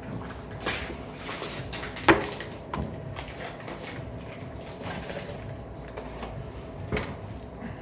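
Handling noises: a few separate clicks and knocks, the loudest about two seconds in, over a faint steady hum.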